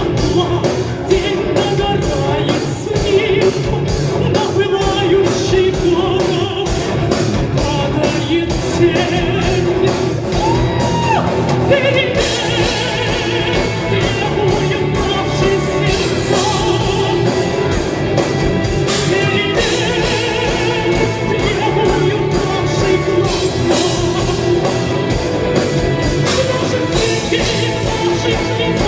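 Live rock band playing, with a singer over drums and guitars at a steady beat.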